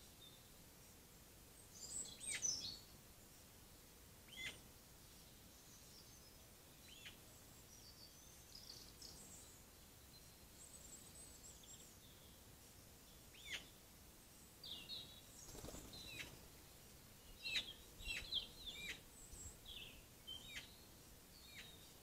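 Birds calling: short, sharp calls and chirps. There is a burst about two seconds in, a few single calls after it, and a busier run of calls in the last third.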